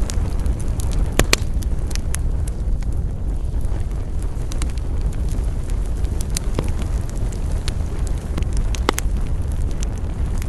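Wood campfire burning, with scattered sharp crackles and pops over a steady low rumble. A few louder pops come about a second in and again late on.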